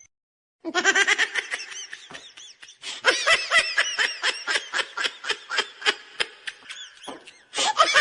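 Someone laughing hard in a long run of quick, high-pitched bursts, starting just under a second in and breaking off briefly about seven seconds in.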